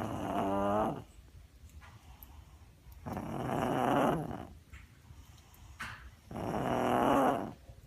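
Pug making loud, throaty grunting noises: three drawn-out ones about three seconds apart, each a second or so long with a buzzing pitch. This is the constant noisy breathing typical of the flat-faced breed.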